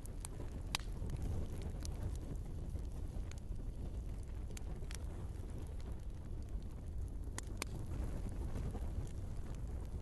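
Wood fire burning in a fireplace: a steady low rumble of flames, with sharp crackles and pops from the logs scattered irregularly, about one a second.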